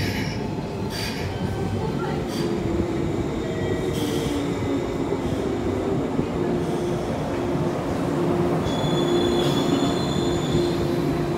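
JR 185 series electric train pulling into the platform and slowing, with a steady whine and a few clicks from the wheels over rail joints in the first couple of seconds. A high, thin brake squeal comes in about nine seconds in.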